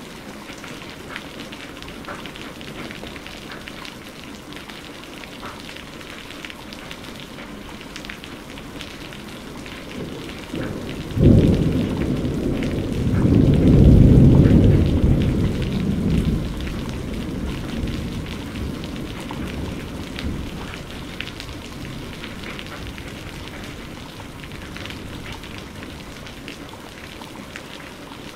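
Steady rain pattering on a surface, with a thunderclap about a third of the way in: a sudden crack, then a low rumble that swells and fades over several seconds.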